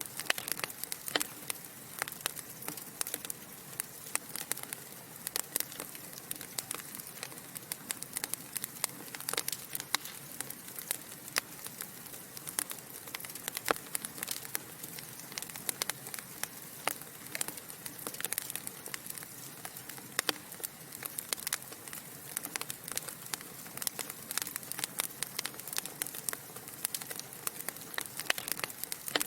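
Logs burning in a fireplace, crackling: irregular sharp pops and snaps, several a second, over a soft steady hiss.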